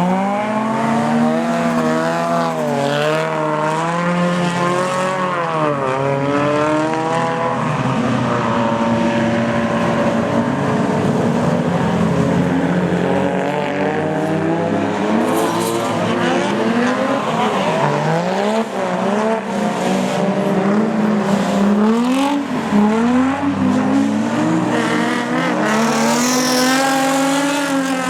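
Drift car engines revving hard and falling back again and again as the throttle is blipped and held through slides, over a constant hiss of tyre noise.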